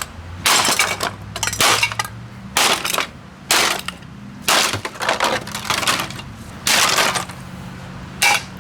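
Metal and plastic parts of a vintage Hoover vacuum cleaner clattering under repeated blows, about eight short crashes unevenly spaced roughly a second apart.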